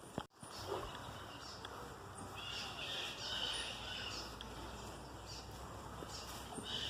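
Woodland ambience: faint bird calls, a low rumble, and a steady high buzzing hiss that swells for about two seconds from around two seconds in and again near the end. The sound cuts out completely for a moment just after the start.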